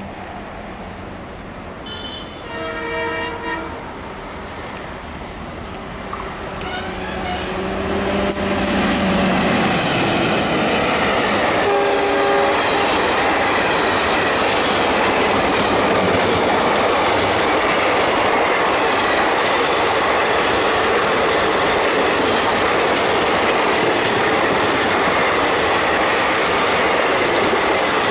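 Indian Railways diesel-hauled passenger train: the locomotive's horn sounds about two seconds in and briefly again around twelve seconds, while the train draws near and grows loud. The coaches then run steadily past close by, wheels clattering over the rail joints.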